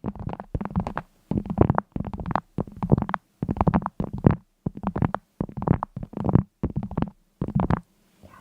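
Repeated short bursts of rapid clicking, about one and a half bursts a second, each lasting about half a second, over a faint steady hum.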